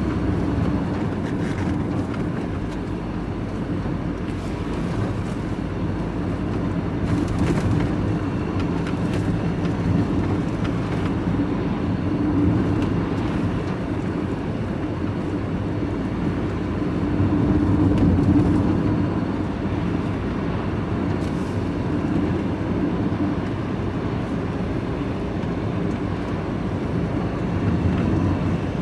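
Truck engine and road noise heard from inside the cab while driving, steady with slight swells.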